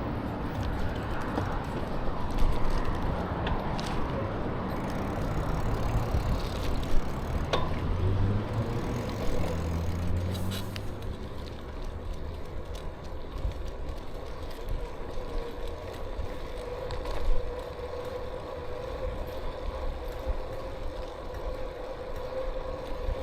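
Bicycle riding along a trail: wind and rolling noise with a few knocks from bumps. About halfway through, a steady whine starts from the bike and holds on.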